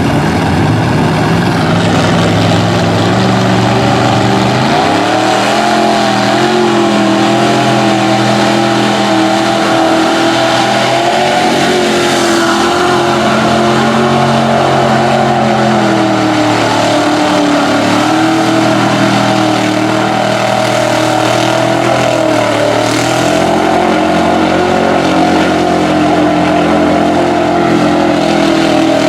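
Off-road vehicle engine revving hard and steadily. It climbs in pitch about five seconds in, holds high with a wavering pitch, dips briefly near the last third, then climbs again.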